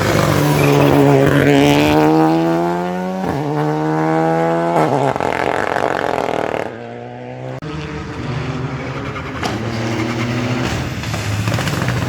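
Rally cars passing at full throttle on a wet stage. An engine revs hard through the gears, its pitch climbing and falling back at two upshifts. After a sudden brief dip, another car's engine comes up.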